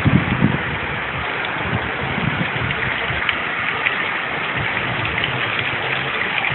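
Steady rain falling in gusting wind as a hurricane arrives, with low wind buffets on the microphone in the first moments and again about two seconds in.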